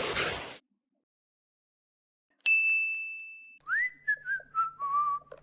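A hissing noise cuts off half a second in. After a pause comes a bright ding that rings for about a second, then a short run of whistled notes, each swooping up and then stepping down in pitch, like a cartoon sound effect.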